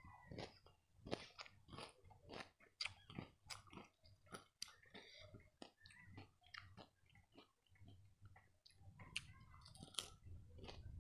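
A person chewing and crunching lai, a crisp rice-and-jaggery sweet, close to the microphone. The crunches are irregular, about two or three a second, with a short lull around eight seconds in.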